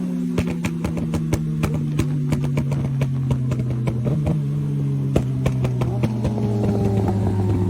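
Motorcycle engine running with a steady note that slowly sinks in pitch and drops lower near the end, with many sharp clicks over it.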